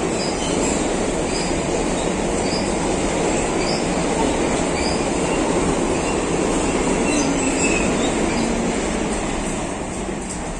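Alstom 4000-series electric commuter train passing close by: a loud, steady rumble of steel wheels on the rails with short high wheel squeaks about once a second, fading off near the end as the last car goes by.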